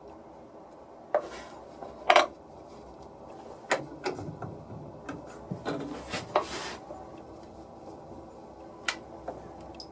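Hard parts handled on a workbench: a series of sharp knocks and clinks with short scrapes and rubs, busiest between about one and seven seconds in, then a last knock near the end.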